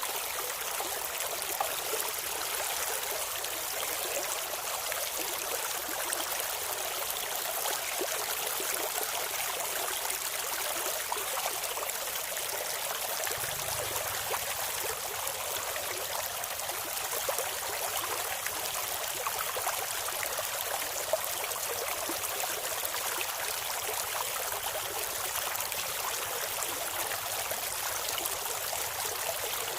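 Clear stream water flowing and babbling steadily over stones, a continuous rushing with many small splashes and trickles.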